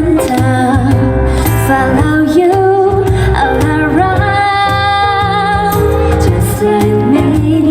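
Live pop song: a woman singing a melody with long, wavering held notes over band accompaniment with a steady bass line.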